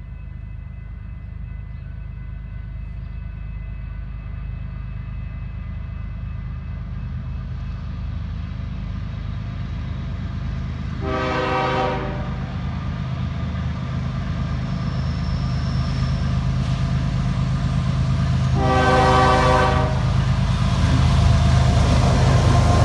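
BNSF ES44AC diesel locomotive at the head of an ore train approaching, its engine rumble growing steadily louder. It sounds two horn blasts of about a second each, one about halfway through and another later on. Wheel and rail noise rises near the end as the train draws close.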